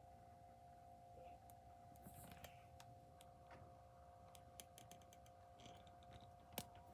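Near silence: faint steady hum with a few faint, scattered clicks.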